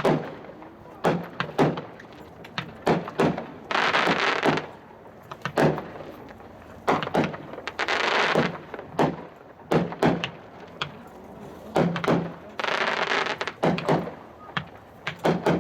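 Nation Ovation, a 16-shot 200-gram consumer fireworks cake, fired from two stations at once: an irregular run of sharp bangs from the shots and their bursts, several coming close together. Three times a noisy burst lasts about a second.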